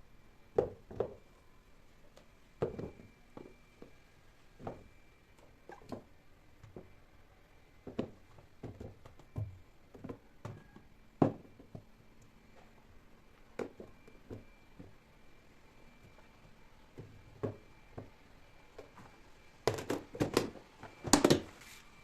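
Light knocks and clicks of household objects being handled and set down, spaced out every second or so, with a quick run of sharper clatter near the end.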